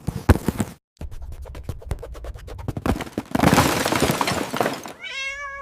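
Rapid clattering knocks, then a loud crash like something breaking, followed near the end by a cat's meow that falls in pitch and then holds.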